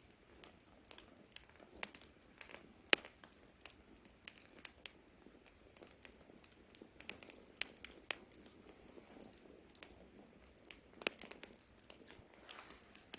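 Wood campfire crackling: irregular sharp pops and snaps, a few loud ones among many small ones, over a soft hiss of burning.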